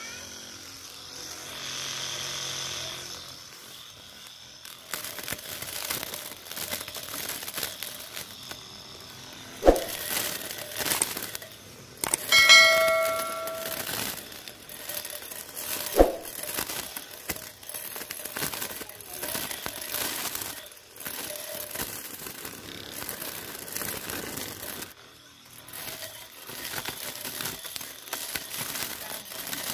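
Homemade grass trimmer driven by a 12 V 775 DC motor, running and cutting grass: a steady motor whine under the rustling, crackling noise of grass being slashed. There are two sharp knocks, about ten and sixteen seconds in.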